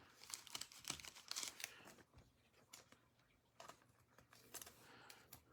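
Faint rustling and small clicks of trading cards and pack wrapper being handled, thickest in the first couple of seconds and then only a few scattered touches.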